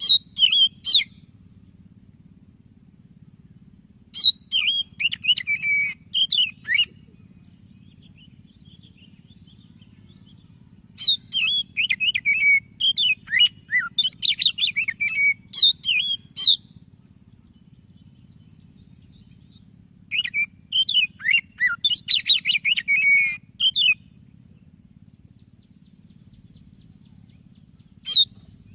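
Oriental magpie-robin of the white-breasted form (kacer dada putih) singing in four loud bursts of rapid, varied chirps and whistles, each a few seconds long with pauses between, and one short note near the end. A faint low steady hum runs underneath.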